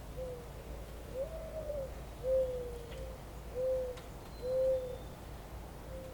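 A bird giving a slow series of low, hollow coos, about six notes. The second note is higher and longer, and the three loudest come in the middle, over a faint steady low rumble.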